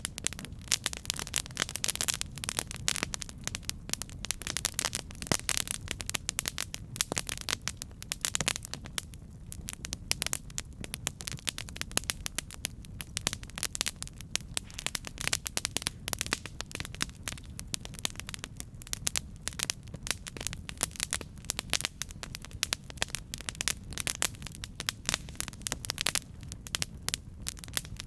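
Campfire burning and crackling: a dense, unbroken run of small pops and snaps over a low, steady rumble.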